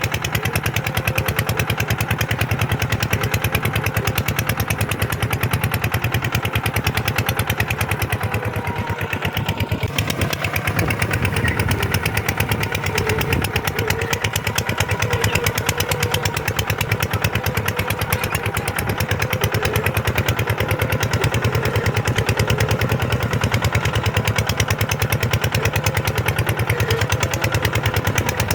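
Kubota tractor's diesel engine running steadily under load while plowing, its exhaust beating in rapid, even pulses. The beat eases slightly for a moment about nine seconds in.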